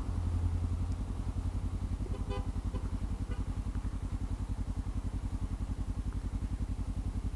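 Motorcycle engine idling steadily, with an even, rapid low pulse.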